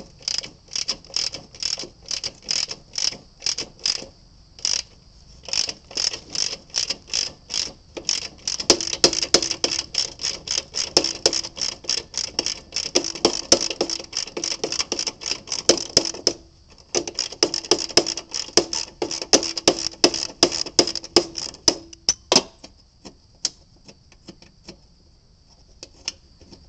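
Socket ratchet wrench clicking in long runs as an engine mounting bolt is backed out, a few clicks a second. It pauses briefly about two-thirds of the way through and stops near the end.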